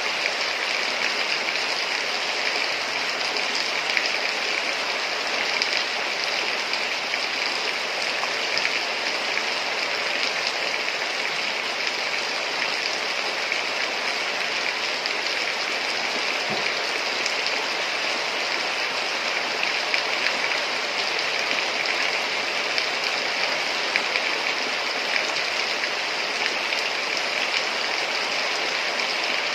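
Heavy rain falling steadily, a dense even hiss peppered with small drop ticks.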